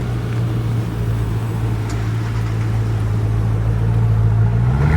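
A car engine running close by at a steady idle; just before the end the engine speed rises a step and holds at the higher pitch.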